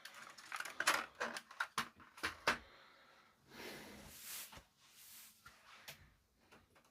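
Front cover of a JVC RX-320V amplifier being pulled off and handled: a run of sharp clicks and knocks, then two short scraping sounds about three and a half and five seconds in, and a few faint ticks near the end.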